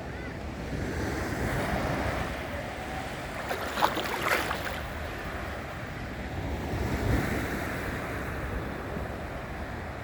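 Sea waves washing ashore in slow swells, with wind buffeting the microphone. Two brief sharper sounds about four seconds in.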